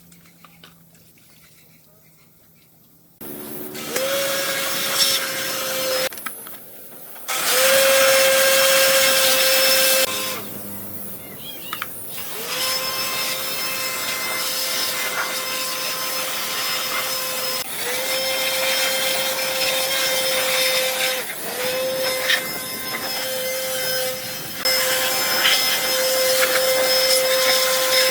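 Handheld electric motor tool switched on and off several times, spinning up to the same steady whine over a hissing rush each time. A quiet pause comes before it starts, about three seconds in.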